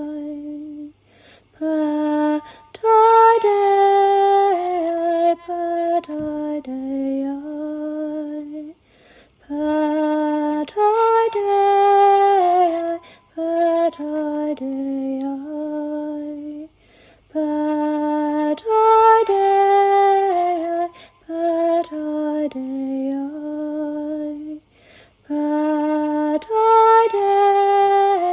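A woman singing a slow, wordless chant in long held notes that step up and down, in phrases that recur about every eight seconds with short breaths between them.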